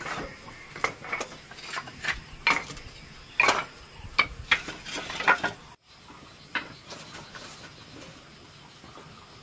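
Metal spatula clanking and scraping against a wok while stir-frying, a string of sharp clinks. Near the middle the sound cuts out briefly and then the clinks come back fewer and quieter.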